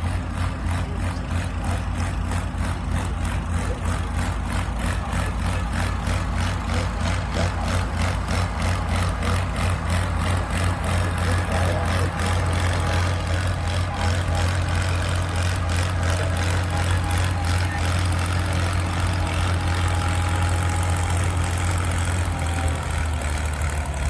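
Antique farm tractor engine running steadily, a deep, even exhaust note with no change in speed.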